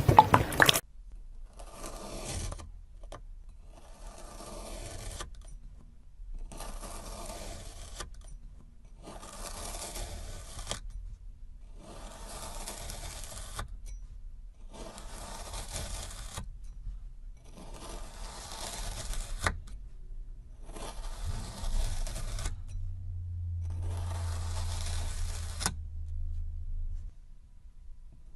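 A series of about nine scraping strokes, each lasting a second or two and coming roughly every two seconds.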